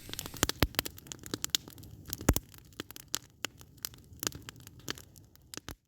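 Wood campfire crackling and popping, with many irregular sharp snaps; it cuts off suddenly near the end.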